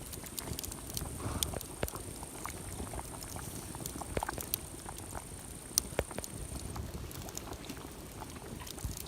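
Campfire sound: a steady hiss with many irregular sharp crackles and pops.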